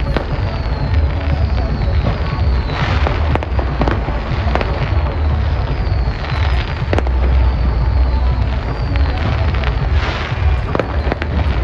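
Fireworks display: steady rumbling booms with sharp cracks every second or so, and several falling whistles.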